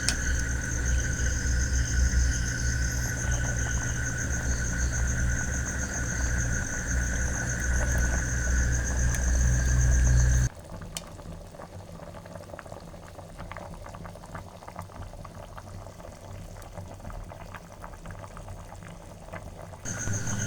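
Chicken curry simmering and bubbling in a clay pot over the fire. It drops abruptly to a quieter bubbling crackle about halfway through and comes back louder near the end.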